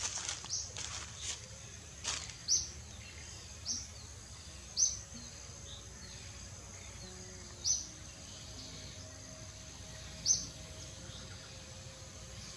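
A bird repeating a short, sharp, high chirp every one to three seconds over a steady outdoor hiss, with a few soft clicks or rustles in the first two seconds.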